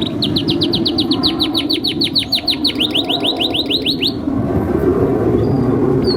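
Domestic canary singing a fast trill of repeated high, downward-sweeping notes, about seven or eight a second, which stops about four seconds in. A steady low background noise runs under it.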